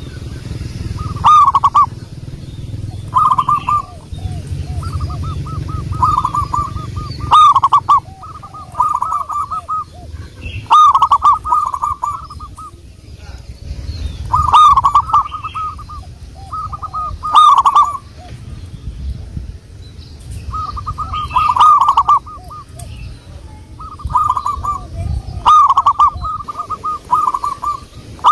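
Zebra dove (perkutut) cooing: short bursts of quick, bubbling coos repeat every second or two, with some higher chirps mixed in, over a low steady rumble.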